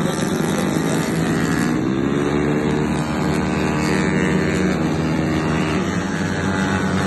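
Yamaha Mio racing scooter's single-cylinder engine through an aftermarket racing exhaust, running hard: the engine note climbs about two seconds in, holds high, then falls off near the end.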